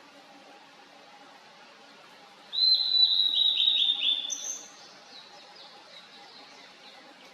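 Blue-and-white flycatcher singing one song phrase about two and a half seconds in: a clear whistle followed by a run of quick falling notes and a higher closing note, lasting about two seconds.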